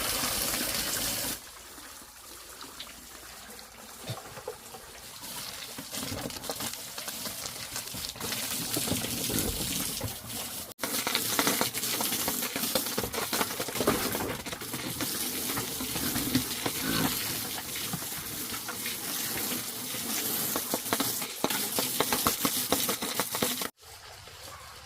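Running, splashing water with small knocks and clatters. The sound changes abruptly about a second in, about eleven seconds in and near the end.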